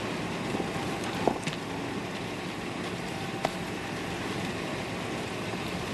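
Car engine running steadily with a low hum, with a short sharp click about a second in and another about three and a half seconds in.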